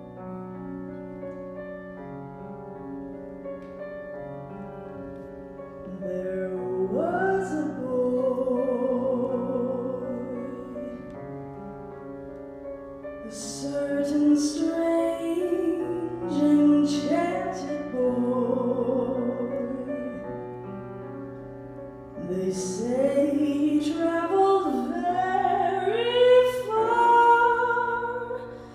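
A woman singing slow, held notes that slide between pitches over sustained accompaniment chords. The voice comes in about six seconds in, after the chords alone.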